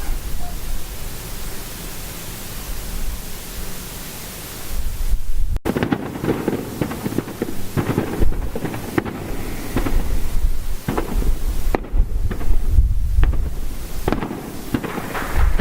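Fireworks going off: a steady hiss for about the first five seconds, then a long run of sharp pops and crackles over low rumbling booms.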